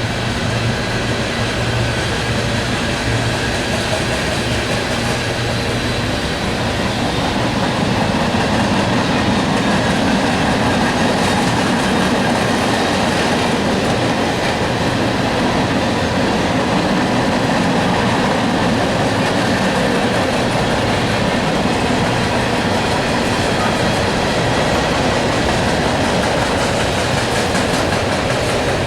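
A long freight train's cars rolling steadily past, steel wheels running on the rails in an even, continuous rumble.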